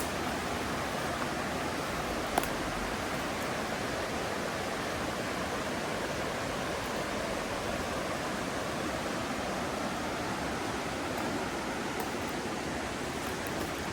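Mountain river rushing steadily over rocks, an even wash of water noise. A single sharp click sounds about two and a half seconds in.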